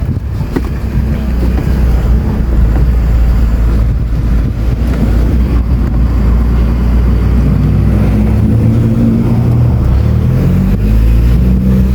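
Mercedes-Benz A-Class A160 being driven, heard from inside the cabin: steady engine and road rumble, with the engine note rising as the car accelerates over the last few seconds. The front-end grinding noise under investigation is not heard.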